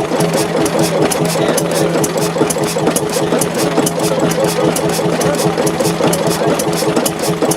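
Diesel engine idling steadily, with a regular clatter of about five ticks a second.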